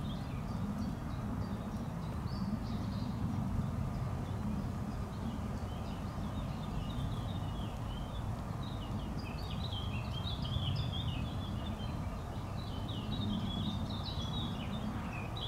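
Small birds chirping and twittering in quick runs of short notes, busier in the second half, over a steady low rumble.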